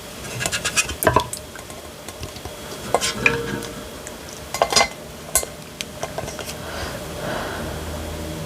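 Sharp clinks and taps of dishware while eating soup, in a few short clusters with gaps between them.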